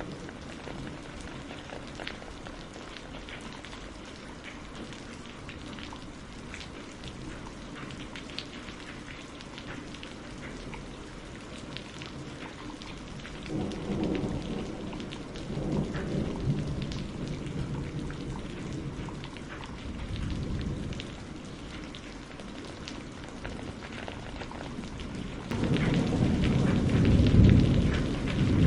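Steady rain falling on a greenhouse roof, with individual drops ticking through it. Thunder rumbles low about halfway through, and a louder rumble starts suddenly near the end.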